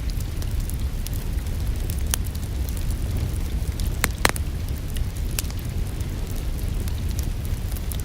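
Wood fire in a fireplace crackling, with scattered sharp pops over a steady low rumble, the loudest a pair about four seconds in. Rain hisses evenly underneath.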